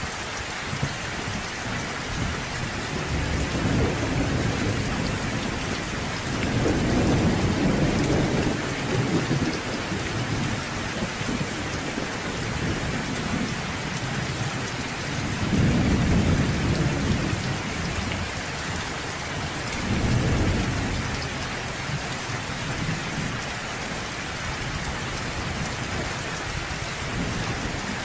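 Thunderstorm: steady rain hissing throughout, with several low rolls of thunder swelling and fading, the loudest about a quarter of the way in and again past the halfway point.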